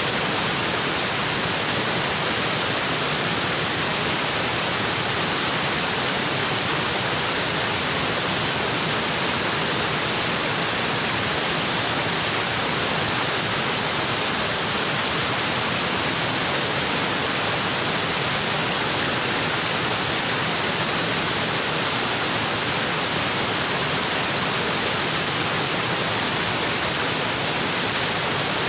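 Waterfall pouring onto rocks: a steady, even rush of falling water that does not change.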